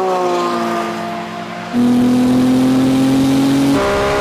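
A supercar engine running hard in a race. Its pitch sags gently, then jumps up and gets louder about halfway through and climbs slowly, and it steps up again near the end.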